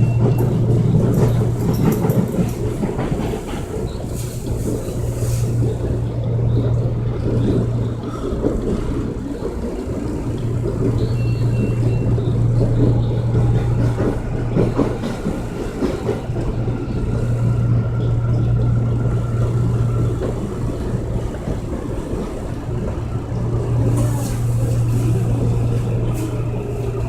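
Commuter train running, heard from inside the carriage: a steady rumble with a low motor hum that fades and returns every few seconds, and a faint whine.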